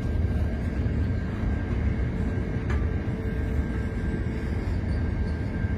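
Container freight train rolling past, its wagons giving a steady low rumble on the rails, with a faint steady high tone over it and a single click near the middle.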